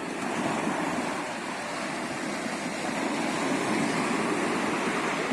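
Mediterranean surf: waves breaking and washing onto the shore in a steady rush that swells and eases slightly.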